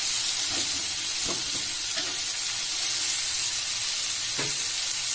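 Chopped onion and tomato masala sizzling steadily in hot oil in a wok, with a spatula stirring and scraping against the pan a few times.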